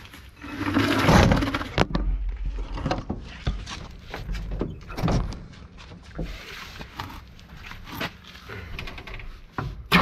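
Irregular knocks and thunks, like doors and parts being handled, with a heavier thump about a second in.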